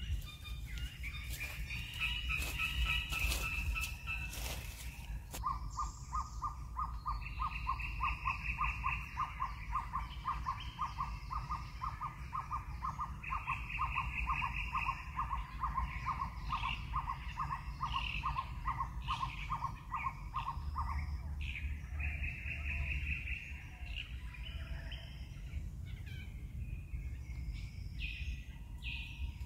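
Forest birds calling: a long, even pulsed trill of about four notes a second that starts about five seconds in and stops about two-thirds of the way through, with shorter bouts of higher, rapid chirping. A few sharp taps sound in the first few seconds, over a steady low rumble.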